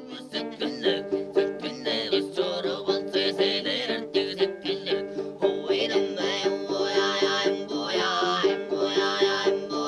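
Traditional-style Mongolian music: a plucked string instrument plays a fast, repeated rhythmic figure.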